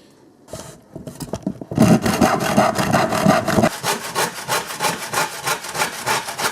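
Saw cutting through a wooden plank with fast, repeated strokes, starting about half a second in.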